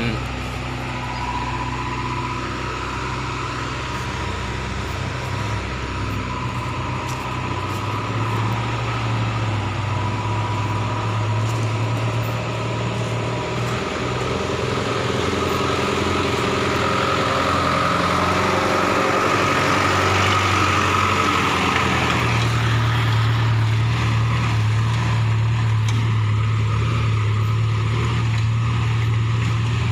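A motor vehicle engine running steadily, its low hum getting louder past the middle.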